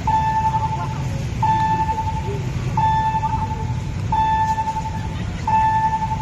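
Railway level-crossing warning alarm sounding for an approaching train: a steady high tone about a second long, repeated five times at an even beat of one every 1.4 s, over a low steady rumble.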